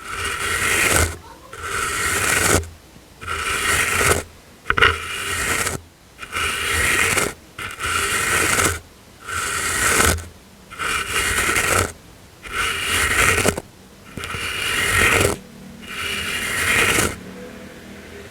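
A brush swept again and again across the microphone, a soft swishing stroke about every second and a half, each lasting about a second, stopping near the end.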